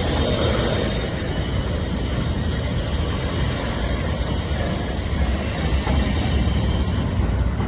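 Rail cars of a passing CSX freight train rolling by: a steady low rumble of wheels on the rails with high wheel squeal above it. The high squeal falls away near the end while the rumble carries on.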